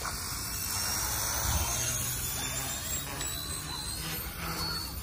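Yu Xiang F1 RC 3D helicopter in flight in stunt mode: its twin brushless motors and rotors give a high whine that rises slowly in pitch, then shifts as it manoeuvres.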